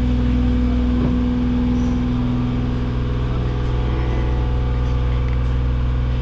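Tour boat's engine running steadily, a constant low drone and hum with no change in pitch.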